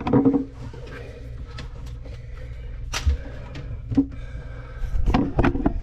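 Scattered knocks and clicks of parts and tools being handled inside a cramped under-sink cabinet, bunched at the start and near the end, over a steady low hum.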